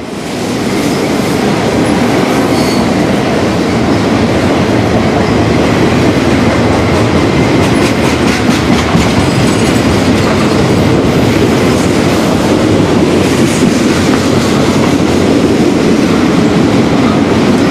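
A train passing close by: a loud, steady rumble of wheels on the rails that builds up over the first second and then holds.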